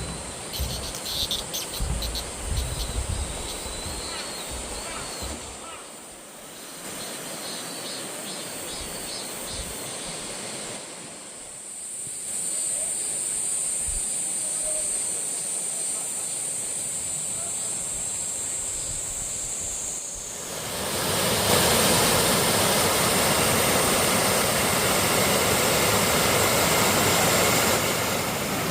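Rushing water of a mountain stream and waterfall, a steady noise that grows much louder about two-thirds of the way through. In the middle, a steady high-pitched insect buzz sits over the water for several seconds.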